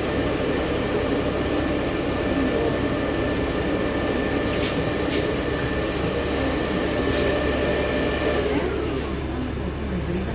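Inside a LiAZ-6213.65 articulated city bus: steady drivetrain hum with a thin whine that glides down in pitch near the end. A hiss of air lasts a couple of seconds about midway.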